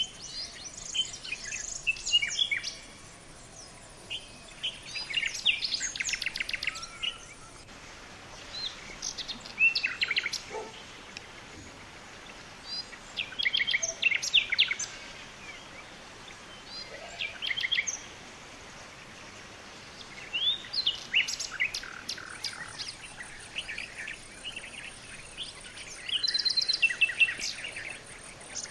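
Wild birds singing and calling: bursts of quick, high chirps and trills, a new phrase every few seconds, over a steady outdoor hiss.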